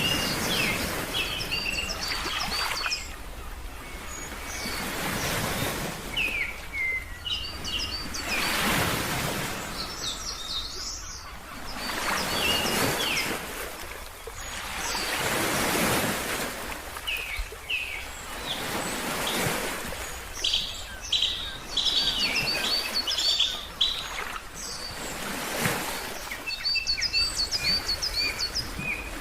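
Ocean waves washing in and out, swelling every few seconds, with small birds chirping in quick runs of short high notes throughout.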